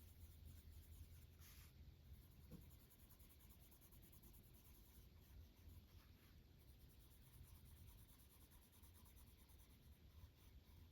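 Faint scratching of a coloured pencil shading lightly on paper, with a single soft click about one and a half seconds in.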